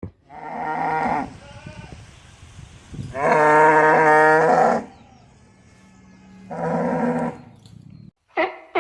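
A farm animal calling three times: long, drawn-out pitched calls, the middle one the longest and loudest.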